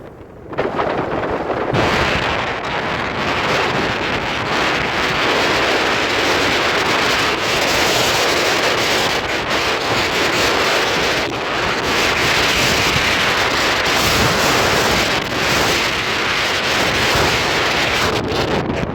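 Steady, loud rushing noise that starts about half a second in and holds even throughout.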